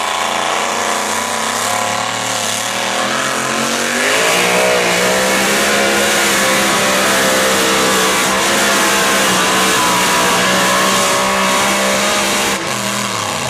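Engine of a tractor-pull vehicle running hard under load: about four seconds in it revs up to a high, steady speed and holds there, then drops back near the end.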